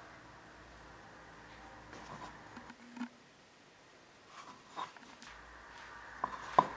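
Scattered light clicks and knocks of handling, with a faint steady hum behind them; the sharpest knock comes near the end.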